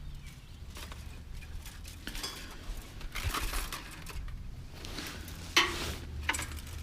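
A bundle of hangers clinking and rattling against each other as they are picked through and handled, with a few louder clatters about three and five and a half seconds in.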